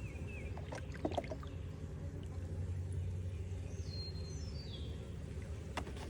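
Bee feed being poured from a jug into a feeder jar, a steady low pouring sound, with a few light clicks about a second in.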